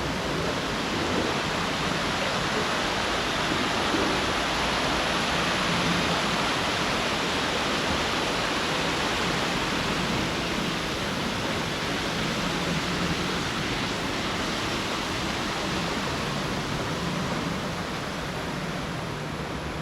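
Steady rushing noise outdoors, swelling a little in the middle and easing off slightly near the end.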